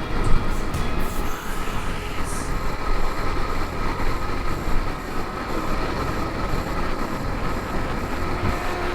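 Strong wind buffeting the microphone over rough, crashing surf: a steady, dense rushing noise heavy in the low end.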